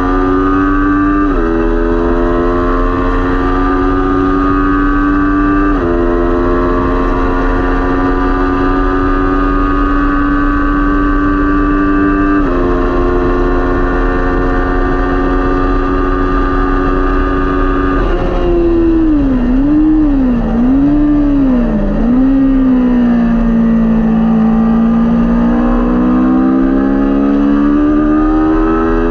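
Kawasaki Ninja 400 parallel-twin racing engine at full throttle, its pitch climbing slowly and dropping sharply at each of three upshifts. About two-thirds of the way in it shuts off, and the pitch swings up and down through rapid downshifts while braking for a corner. Near the end it pulls hard again with a rising note.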